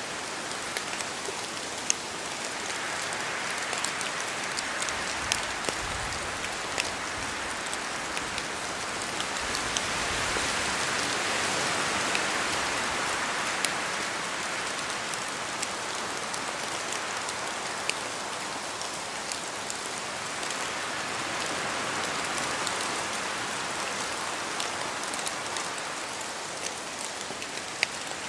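Steady rain with wind in a forest: an even hiss that slowly swells and eases, loudest a little under halfway through, with scattered sharp taps of drops falling from the trees.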